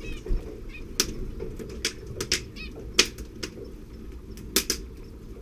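Canary and nestlings moving in the nest: irregular sharp clicks and taps, about half a dozen, with a few faint high cheeps over a low steady hum.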